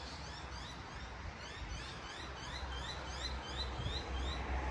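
Steady rain hiss with a low rumble of road traffic underneath, while a bird calls a quick run of short, high rising notes, about three a second, starting about a second and a half in.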